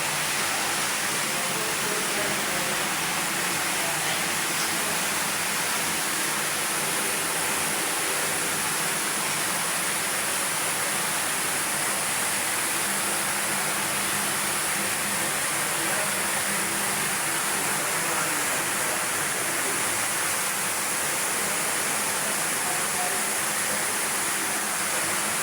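A steady, even hiss that holds the same level throughout.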